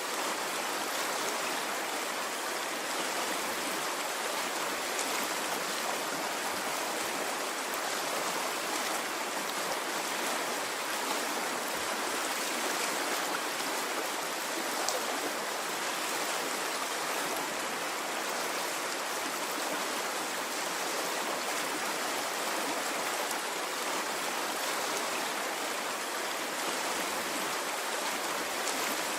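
Water in a stream flowing steadily, an even unbroken noise with no rise and fall of waves.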